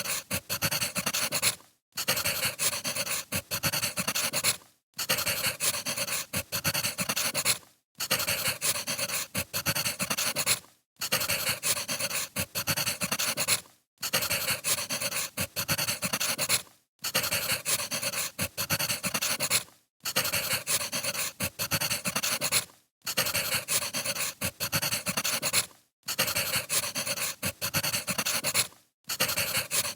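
Crackling of burning firewood, played as a short loop: dense crackle that cuts out briefly about every three seconds and starts again.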